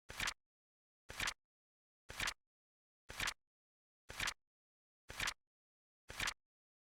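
Flip clock flap sound effect: a short double click, a light one then a louder one, repeating once a second, seven times, with dead silence between.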